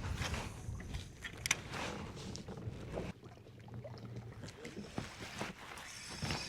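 Scattered small clicks and knocks of gear being handled in a kayak, over a low rumble that drops away about three seconds in.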